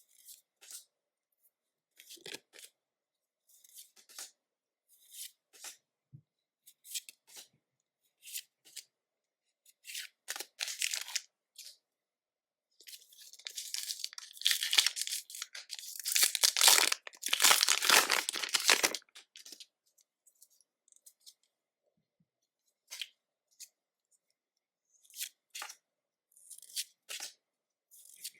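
Foil Pokémon booster pack wrapper being torn open, with a long, loud crinkly tear about halfway through. Short crinkles and light taps from handling the pack and cards come before and after it.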